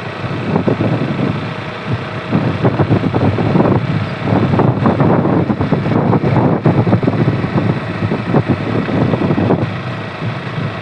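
KTM RC 200 single-cylinder motorcycle running on the road, with wind buffeting the microphone. It gets louder and gustier about two seconds in and eases off near the end.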